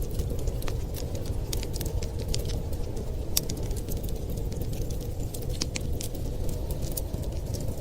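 Wood fire crackling in a fireplace: many small, sharp, irregular pops and snaps over a steady low rumble.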